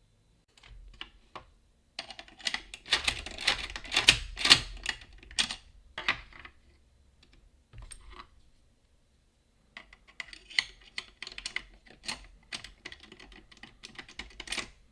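Boda 429 eight-lever lock being picked: rapid metallic clicking and scraping of the pick against the levers, in two long runs with a short burst and brief pauses between them.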